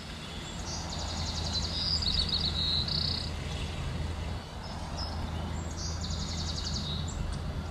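Small songbirds singing outdoors, with quick buzzy trills and chirps about a second in and again about six seconds in, over a steady low rumble of background noise.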